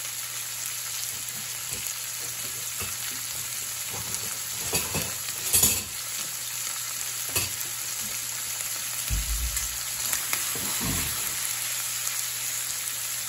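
Jumbo shrimp frying in hot olive oil with chopped garlic in a frying pan: a steady sizzling hiss with scattered pops of spitting oil, the loudest about five and a half seconds in. A couple of dull low knocks come later on.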